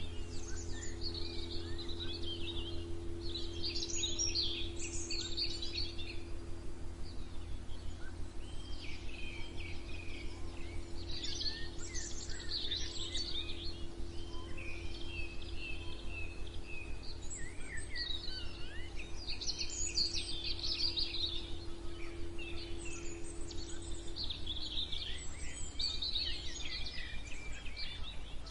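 Several songbirds singing and chirping in overlapping bursts of high, quick phrases, over a steady low rumble. A faint steady hum runs underneath and stops about 24 seconds in.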